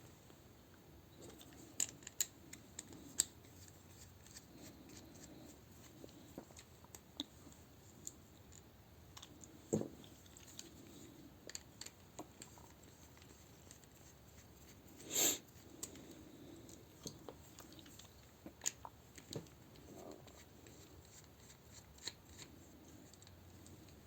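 Faint, scattered clicks and scrapes of hard plastic parts of a Transformers combiner figure being handled and worked apart as a panel is taken off, with a louder knock about ten seconds in and the loudest one about fifteen seconds in.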